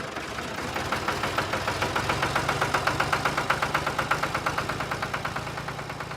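Small engine running at a steady, rapid, even chug.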